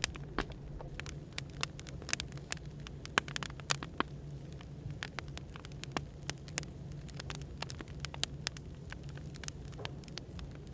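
Firewood burning, crackling with sharp irregular pops over a steady low hum of café background noise.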